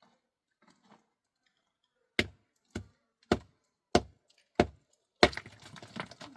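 A series of six sharp, evenly spaced strikes, about one every 0.6 seconds, starting about two seconds in, followed near the end by a jumble of smaller knocks and clatter.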